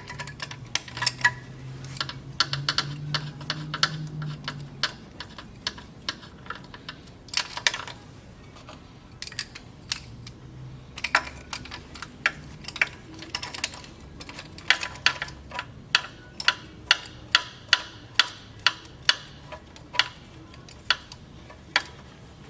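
Hand tools clicking and tapping on metal parts: a run of sharp, irregular clicks and knocks that settles into an even beat of about two a second in the second half.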